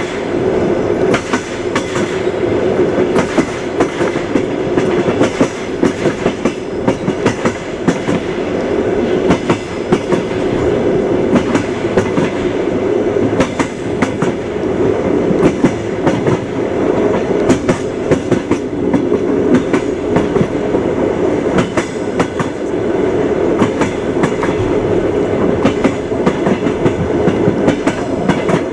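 Wheels of a moving train clattering over rail joints, frequent sharp clicks over a steady rumble of the running carriage.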